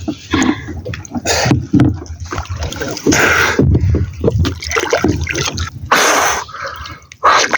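Water splashing and sloshing in irregular loud surges, close to the microphone.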